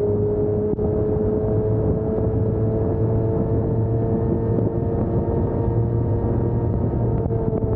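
Motorcycle engine running at steady highway cruising speed, its drone creeping slightly higher in pitch and starting to ease off near the end.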